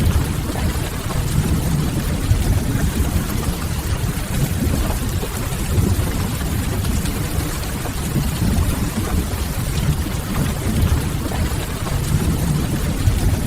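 Steady rain ambience with a deep, constant low rumble underneath, mixed with a wood fire burning in a fireplace.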